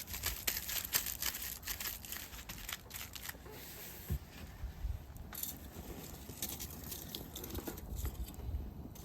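Crinkling and rustling handling noise: a dense run of small clicks over the first three seconds, then sparser and quieter.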